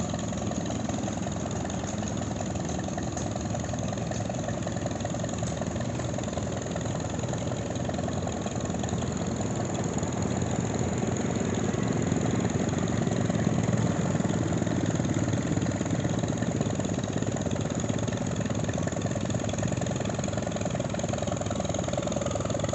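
An engine running steadily, growing somewhat louder around the middle and easing off slightly toward the end.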